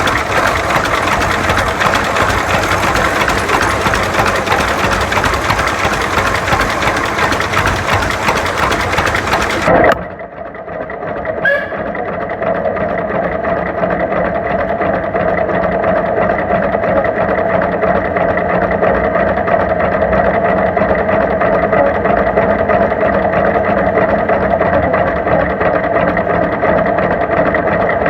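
Tractor engines running. About ten seconds in the sound changes abruptly to one engine running at a steady, even pitch.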